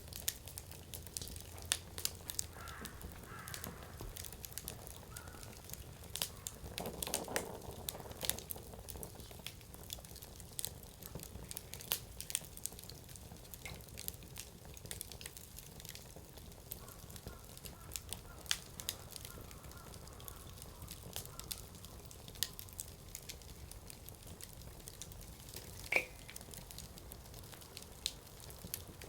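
Firewood burning in an open fire pit, crackling with frequent sharp pops scattered irregularly throughout, and one louder pop a little before the end.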